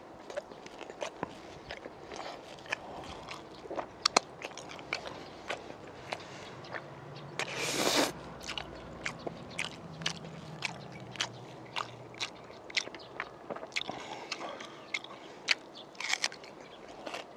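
Close-miked eating of spicy braised pork ribs: wet biting, chewing and mouth clicks as meat is gnawed off the bone, with one louder, longer noisy burst about halfway through.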